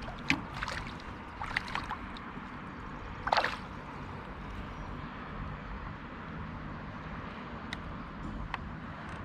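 Water sloshing against a kayak hull, with a few short sharp splashes and knocks; the loudest comes about three seconds in, and fainter ticks follow near the end.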